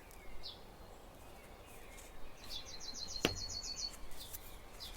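A small bird in the background singing a quick trill of about nine high, evenly spaced chirps, with a few faint single chirps before it. A single sharp click sounds in the middle of the trill.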